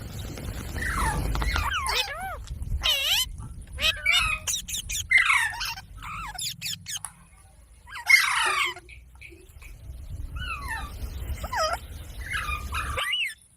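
Pet parrot calling: a run of short chirps and gliding whistles broken by several harsh squawks, stopping abruptly near the end.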